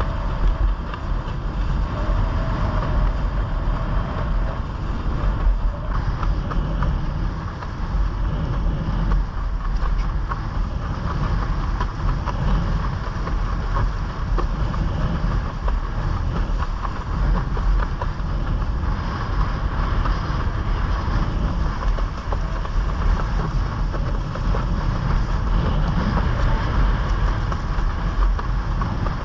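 Steady wind rumble on the microphone over rushing, splashing water while a windsurf board sails.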